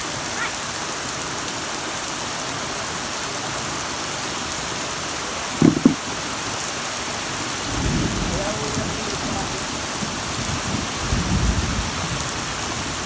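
Heavy rain falling steadily, a dense even hiss. Two short loud thumps come close together about six seconds in, and low rumbles come around eight and eleven seconds in.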